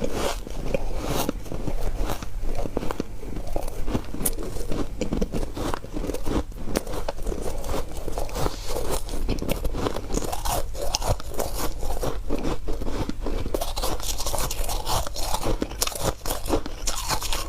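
Close-miked crunching and chewing of hard white frozen ice, dense irregular bites and crackles.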